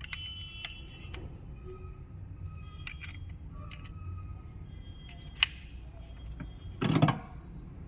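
Small metal parts and hand tools clinking and ringing against each other during engine work, a scattered series of light clicks and metallic rings, with one louder brief scrape or knock about seven seconds in over a steady low hum.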